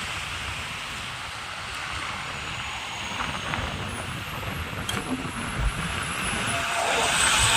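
Road traffic noise from passing vehicles, a steady rushing with some wind on the microphone and a few low thumps in the middle, growing louder near the end.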